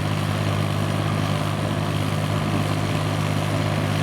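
Diesel engine of a Kubota M5000 tractor running steadily with an even low hum. It sounds smooth and quiet, a sign that the engine is in good condition.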